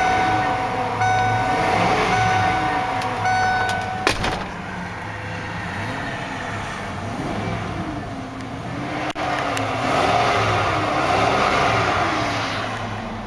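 1996 Ford Bronco's 5.0-litre fuel-injected V8 being revved over and over, its pitch rising and falling every second or so over the idle. For the first four seconds a steady warning chime sounds, and it ends with a single knock.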